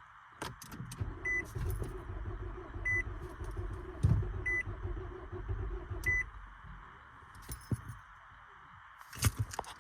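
The starter is cranking a 2014 Nissan Altima's engine for about five and a half seconds, and the engine turns over without catching: the crank-no-start fault. A short beep repeats four times, about every second and a half, while it cranks. A few sharp clicks come near the end.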